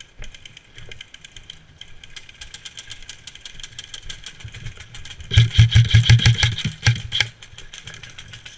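Airsoft electric guns firing full-auto: a rapid, even clatter of shots throughout, with one much louder burst of about two seconds a little past the middle.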